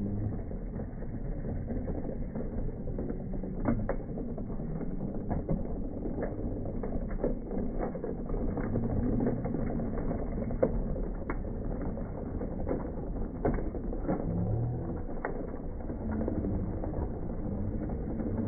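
Slowed-down rattling and grinding of a toy truck being towed over pavement, deep in pitch, with irregular sharp clicks.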